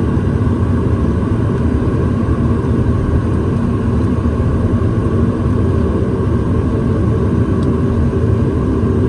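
Steady, loud rumble of an airliner's engines and airframe heard inside the passenger cabin as the plane taxis after landing.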